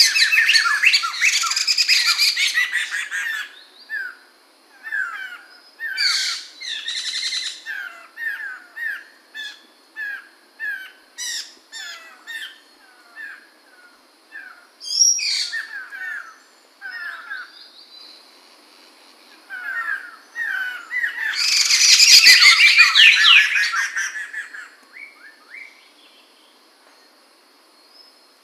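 Poksay mantel laughingthrush singing: a series of short repeated whistled notes, about two a second, broken by several loud bursts of rich, rapid chattering song, the longest about two-thirds of the way through.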